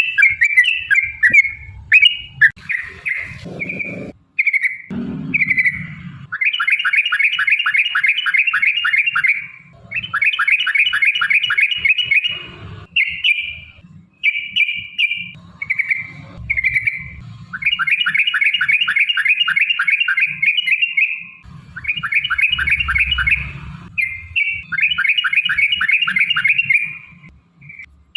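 Yellow-vented bulbul (trucukan) singing long, fast trilled phrases of about ten notes a second, each lasting two to four seconds. Short chirps fall between the phrases.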